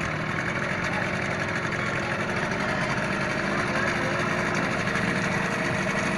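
Boat engine running steadily under way, a continuous drone with the rush of wind and water.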